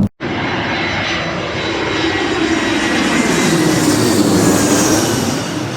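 Jet airliner passing low overhead, a steady engine rush that swells to its loudest about four to five seconds in and then eases off.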